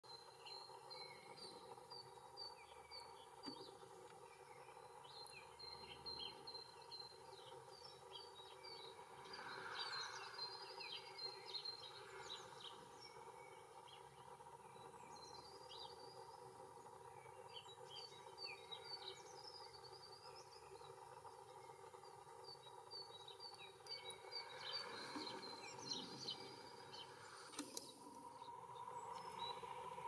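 Small birds chirping and calling faintly, with runs of short high notes and a few louder, sweeping calls about ten seconds in and again near twenty-five seconds. Under them runs a faint steady hum.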